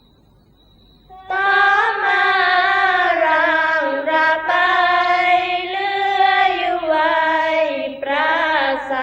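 Sorapanya chanting, Thai Isan Buddhist verse sung by a women's troupe: long held, melismatic phrases with slow falling pitch glides, starting about a second in after near quiet.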